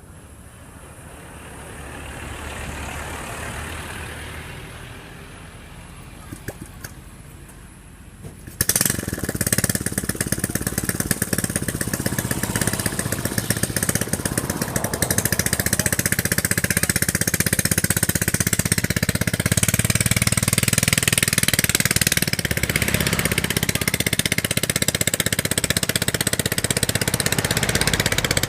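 A motor engine starts up close by about nine seconds in, then runs steadily with a rapid pulsing note. Before it, a fainter passing rush of noise rises and fades.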